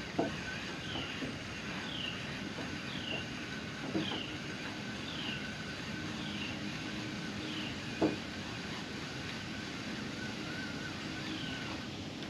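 A short falling chirp, likely a bird's, repeated about once a second over a steady low hum, with a few sharp clicks about every four seconds.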